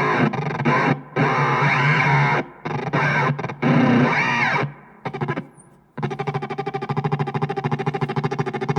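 Harsh distorted electronic noise from a noise machine. For the first six seconds it is switched on and off in abrupt blocks, with a pitch sweep rising and falling around four seconds in. After that it settles into a steady drone that pulses rapidly, several pulses a second.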